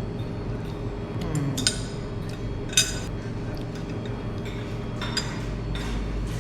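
Cutlery and dishes clinking, a few sharp ringing clinks with the loudest about three seconds in, over a steady low rumble of traffic.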